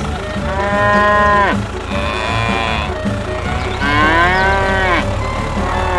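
Cow mooing four times, each moo a long call that swells and then falls away, over background music with a steady low beat.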